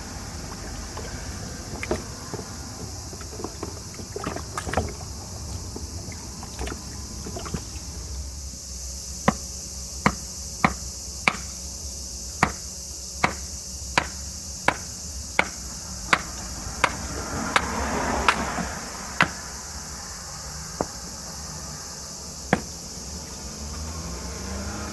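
Sharp blows of a tool on green hackberry (enoki) wood while it is worked into spoon blanks. At first they are scattered and soft, then a run of about fifteen evenly spaced strikes comes at roughly one and a half a second, and two lone strikes follow near the end.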